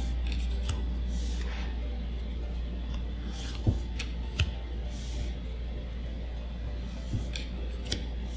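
Handling of Magic: The Gathering booster packs and cards: soft crinkling and sliding of foil wrappers and cards, with a few sharp clicks, over a steady low hum.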